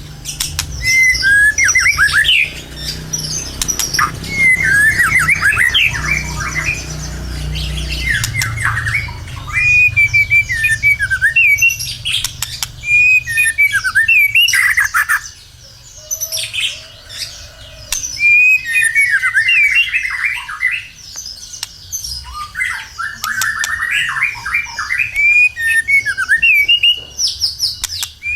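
White-rumped shama (murai batu) singing in loud bursts of rapid, sweeping whistles and chatter, with short pauses between phrases and a quieter stretch about halfway through. A low hum sits under the song for the first third.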